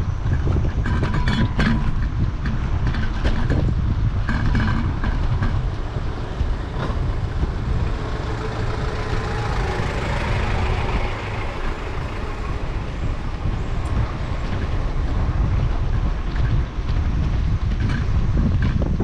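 Wind buffeting a camera microphone during a street ride, a steady low rumble with road noise. Around the middle a rushing noise swells and fades.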